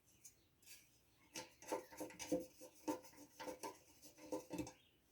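Small screws being turned into the air-filter housing of a Briggs & Stratton engine with a hand tool: a faint run of short scraping clicks, about two a second, starting about a second and a half in and stopping near the end.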